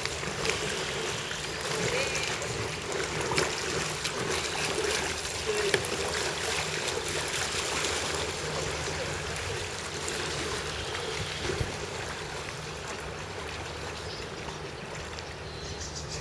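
Water flowing and splashing steadily around a boat, with faint voices in the first half and a high insect-like chirring near the end.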